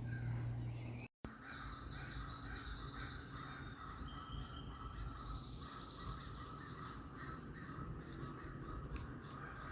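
Outdoor birdsong: crows cawing among many short, faint chirps of smaller birds.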